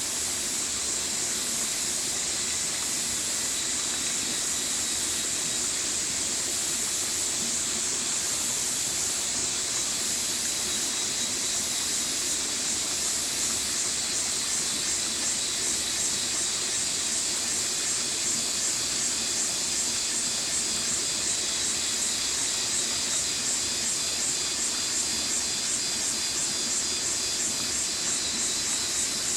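Stream water running, a steady continuous hiss.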